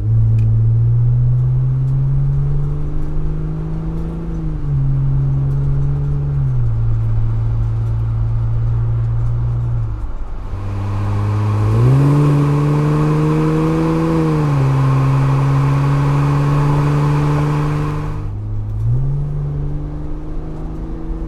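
2018 Jeep Wrangler JL's 3.6L V6 exhaust through a Magnaflow MF axle-back with a straight-through muffler, running with a deep steady note whose pitch climbs and drops several times as the engine speed changes. A rushing noise joins it for several seconds in the middle.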